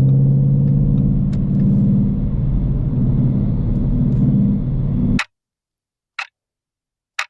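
Car engine running steadily with a low hum, cutting off abruptly about five seconds in; then silence broken by two short clicks.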